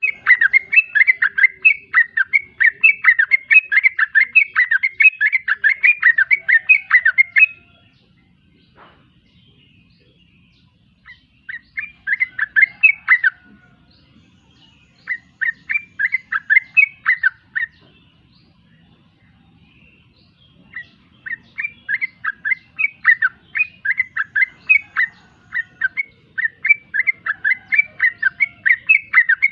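Yellow-vented bulbul (trucukan) singing a fast run of short repeated notes, about four a second, in four bouts with pauses between them.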